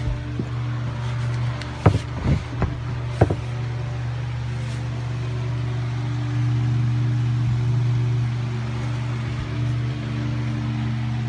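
A steady low mechanical hum, with a cluster of four or five sharp knocks about two to three seconds in.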